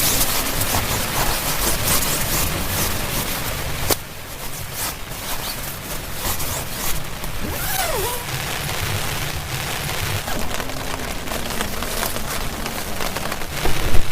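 Heavy rain pouring down, a dense hiss of drops striking the surface with many sharp individual hits. The level shifts suddenly at the start and again about four seconds in, and the loudest hits come near the end.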